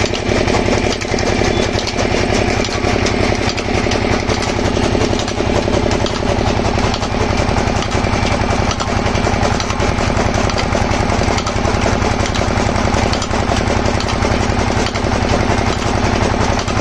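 Engine pumpset running steadily at a constant speed with a fast, even chugging beat, driving a chaff cutter machine.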